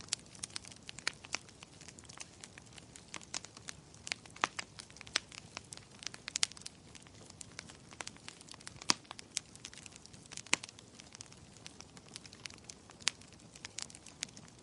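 Wood fire in a fireplace crackling: many sharp irregular pops and snaps over a soft steady hiss of burning.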